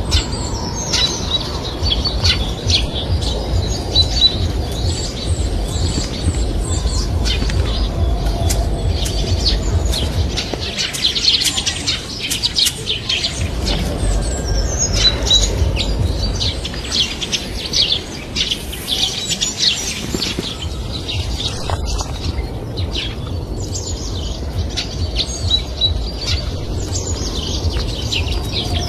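Many small birds chirping continuously in short, high-pitched calls, over a low steady rumble.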